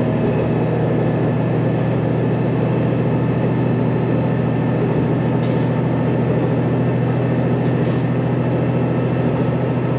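Diesel railcar of the Sanriku Railway running under power, heard inside the passenger cabin: a steady low engine drone with rail and wheel noise underneath.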